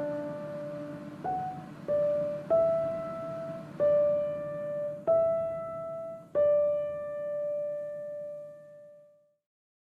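Background music: a slow piano melody of single struck notes, about one every second or so, the last note held and fading out near the end.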